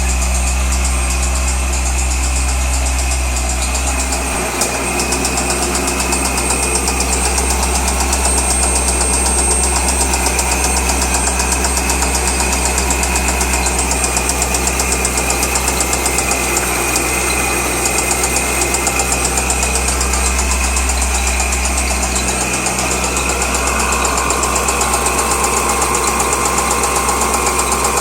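2003 Corvette Z06's LS6 5.7-litre V8 idling steadily with a fast, regular knocking noise running through it, which the owner takes for engine knock.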